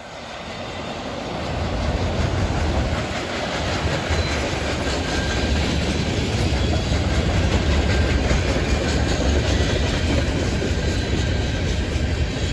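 Freight train passing close by, led by GE ET44AC diesel locomotives: a heavy low rumble with wheels clattering on the rails. The sound swells over the first two seconds as the train arrives, then stays loud and steady.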